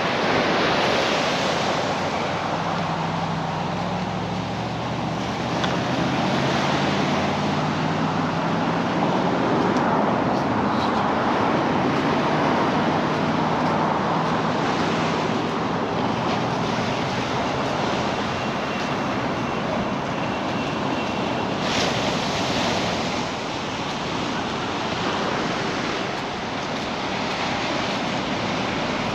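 Ocean surf breaking and washing up the beach, a steady rush of waves, with a faint low hum in the first several seconds.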